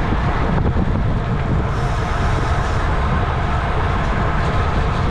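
Steady wind rush on the microphone of a camera on a bicycle racing at speed.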